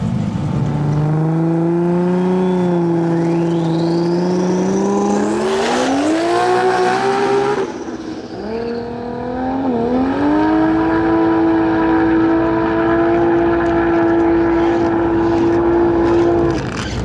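Drag racing car on a full-throttle pass. The engine note climbs steadily, drops sharply at a gear shift about halfway through, and dips again at a second shift. It then holds one steady high note for several seconds and cuts off suddenly near the end.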